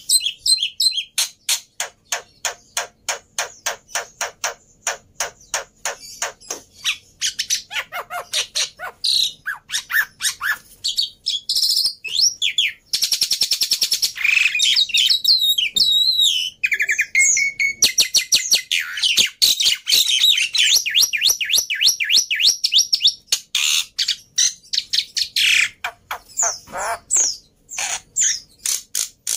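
Black-winged myna (jalak putih) singing at length: runs of sharp repeated notes, about four a second, with a dense stretch of rapid chatter and gliding whistles in the middle.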